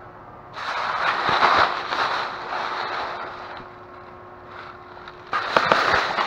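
A noisy dumpster being opened and worked through: loud scraping and rattling, easing off in the middle, then louder again with several sharp knocks near the end.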